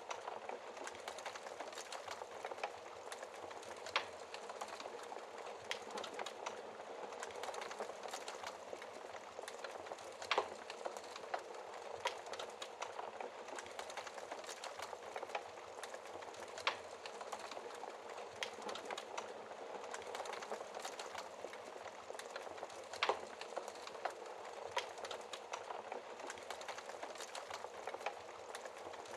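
Wood fire in an open fireplace crackling steadily, with a handful of sharper, louder pops spread through it.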